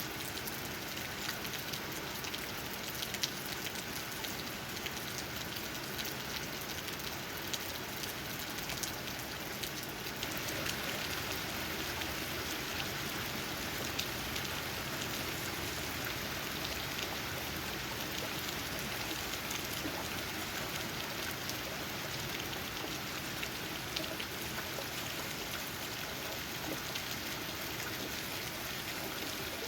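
Steady rain pattering on leaves, a dense hiss of many small drop ticks, getting slightly heavier about ten seconds in.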